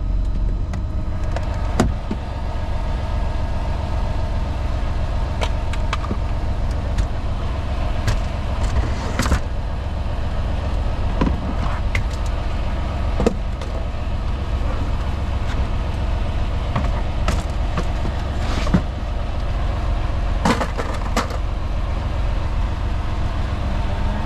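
A semi truck's diesel engine idles steadily, with scattered sharp clicks and knocks from parts being handled.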